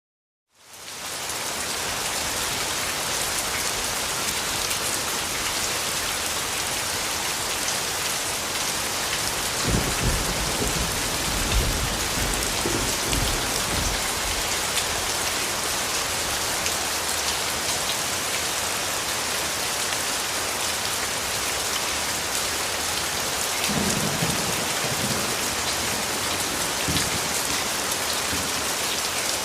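Steady rain falling, fading in from silence in the first second, with rumbles of thunder about ten seconds in and again near the end.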